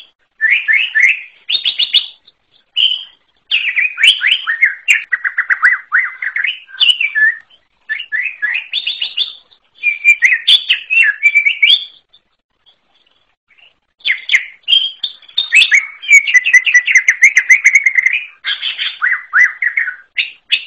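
Green leafbird (cucak ijo) singing: fast runs of chirps and whistled notes in long bursts, broken by short pauses, one of them about two seconds long past the middle.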